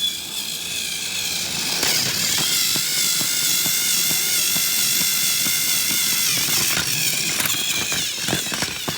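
A small electric motor running with a loud, steady whine that wavers in pitch and comes with a clattering of rapid clicks. It builds up about two seconds in and eases off near the end.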